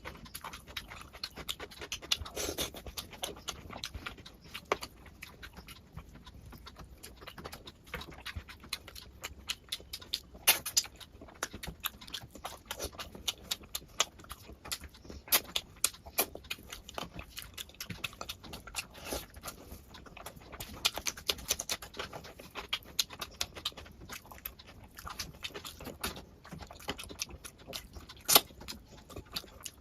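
A person eating with the mouth close to the microphone: wet chewing and lip smacking, heard as many irregular short clicks and smacks.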